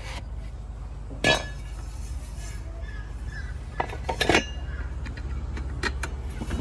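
A heavy machine's engine running with a steady low hum, with sharp metallic clanks about a second in, a cluster of them near the middle and one more near the end.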